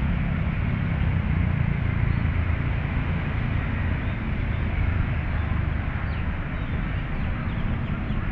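Steady low rumble of city traffic, with a few faint bird chirps over it.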